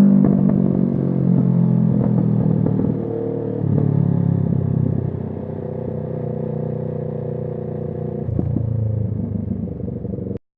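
Kawasaki Z650's parallel-twin engine through an SC Project aftermarket exhaust, running at moderate revs on the move, its note easing down with a couple of shifts in pitch. The sound cuts off suddenly near the end.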